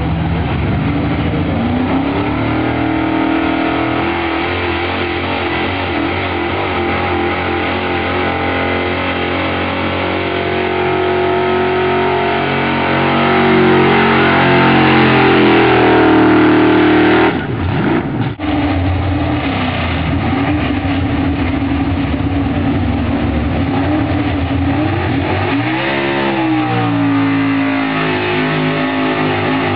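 Pulling truck's engine running hard under load, its pitch climbing slowly and getting louder, then cutting back abruptly about seventeen seconds in. It then runs steadily, with one brief rev near the end.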